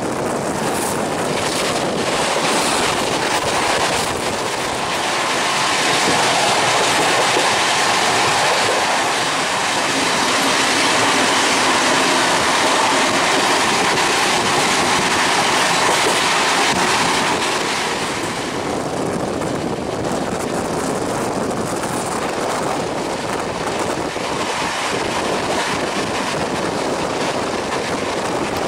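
Express passenger train running at about 130 km/h, heard from an open coach door: a steady rush of wheels on rail and wind, with clickety-clack over the joints. It swells louder for a stretch in the middle, and near the end a train on the next track passes close alongside.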